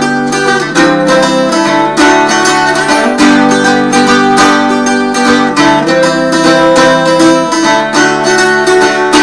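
Chords strummed on an eight-string Irish bouzouki converted from an old Bohm waldzither, strung in four courses tuned G D A E. Repeated strums with the chord changing every second or so, each chord ringing on between strokes.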